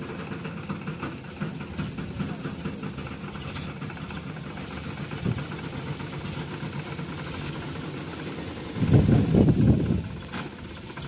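Sonalika RX 35 tractor's diesel engine running steadily at idle, with a loud rough rumble for about a second near the end.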